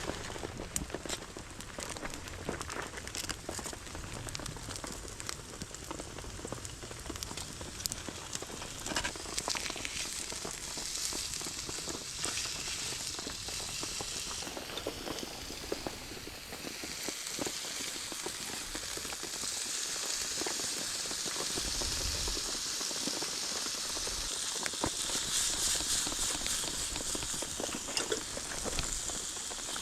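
Pork sizzling as it cooks over a campfire, with scattered crackles and ticks. The sizzle comes up about ten seconds in and gets louder from about twenty seconds in.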